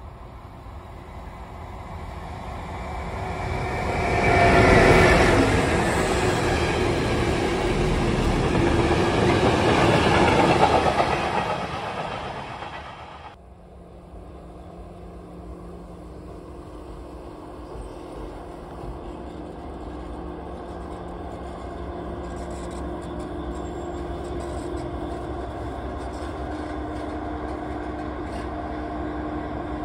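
An electric train passes along the track. Its noise swells to a peak about five seconds in, stays loud, and cuts off suddenly about thirteen seconds in. Then a diesel shunting locomotive's engine runs steadily with a low hum, slowly growing louder.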